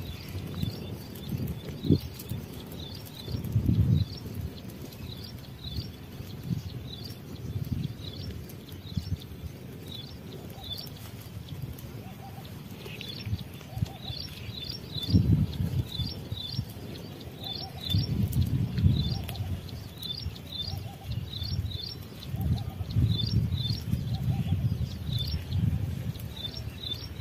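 A small bird chirping over and over, short high notes often in quick pairs, about once a second. Irregular low rumbles swell now and then underneath, loudest around the middle and near the end.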